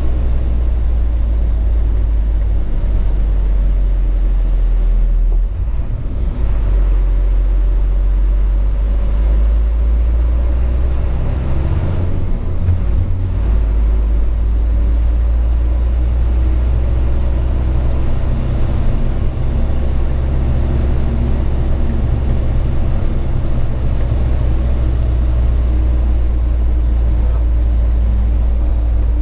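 Hino 500 FM 260 JD ten-wheel truck's six-cylinder diesel engine running under way, heard from inside the cab as a steady low rumble. The level dips briefly about six seconds in.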